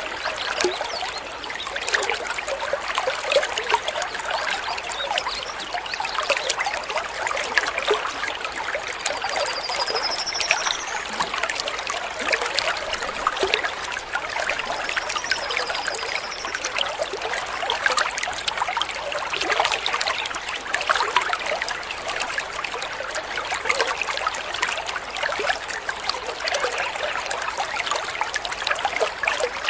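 Water trickling and babbling steadily over stones, like a small stream. A bird gives two high whistled calls, a rising one about a third of the way in and a shorter curved one near the middle.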